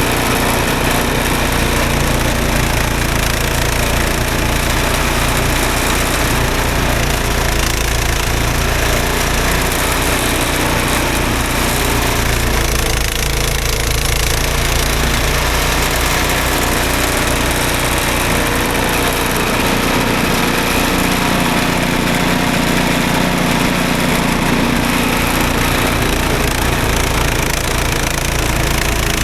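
Gas snowblower engine running steadily at working speed, clearing snow.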